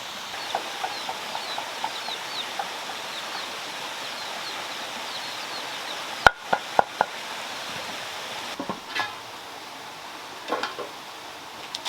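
Steady rush of water running over a handmade stone waterfall, with short bird chirps over it in the first few seconds. A few sharp knocks come about halfway through, and again near the end.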